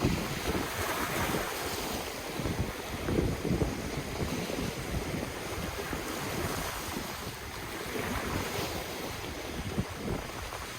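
Ocean waves washing in and out on the shore, the surf hiss swelling about a second in and again near the end, with wind buffeting the microphone in irregular low gusts.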